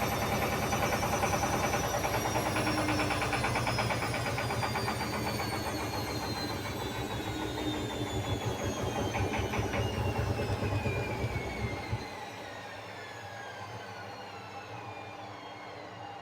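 Beko washing machine in an unbalanced spin, really loud: the drum knocks and the cabinet rattles rapidly and evenly while the motor's whine falls steadily in pitch as the drum slows. The knocking stops suddenly about 12 seconds in, and the quieter whine carries on winding down.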